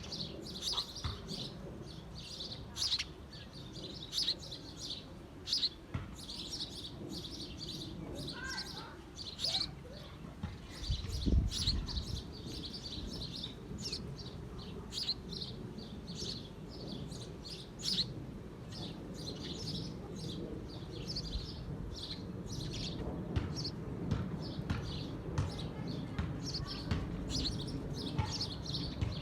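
Birds chirping: many short, high chirps repeating, with a brief low rumble about eleven seconds in.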